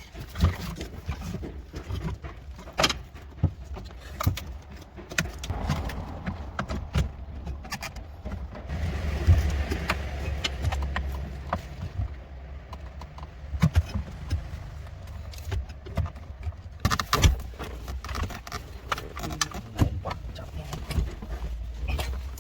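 Irregular metallic clicks and knocks of tools and car parts being handled during repair work, over a low steady hum.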